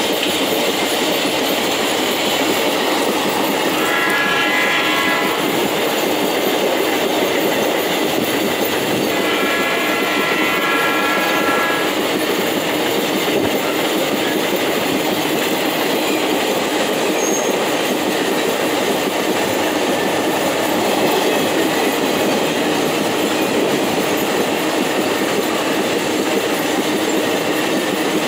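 Empty iron-ore gondola wagons rolling past at close range, wheels clattering and rumbling steadily on the rails. Two brief pitched tones ring out over it, one about four seconds in and a longer one from about nine to twelve seconds.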